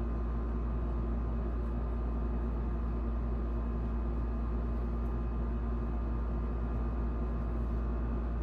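Steady low mechanical hum with a few faint constant tones, unchanging throughout.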